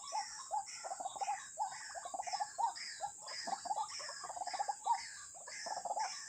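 White-breasted waterhen (ruak-ruak) calling over and over, two or three calls a second, over a steady high drone of insects.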